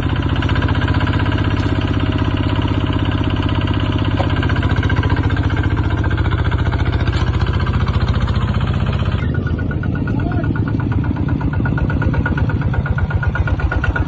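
Kubota RT140 single-cylinder diesel engine of a walking tractor running steadily with a rapid, even firing beat. About nine seconds in the sound changes abruptly to a lighter, more clattering run.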